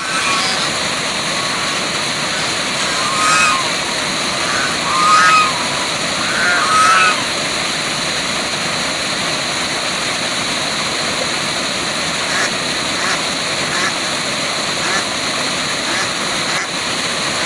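Waterfall rushing steadily, with three short bird calls about three, five and seven seconds in.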